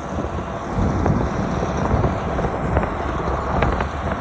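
A farm vehicle's engine running steadily, with wind buffeting the microphone and a few light clicks in the second half.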